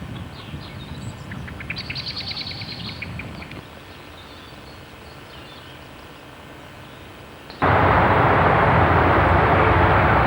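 A bird sings a short rapid trill of chirps over a low rumble. About three quarters of the way through, a loud steady rushing noise cuts in abruptly and becomes the loudest sound.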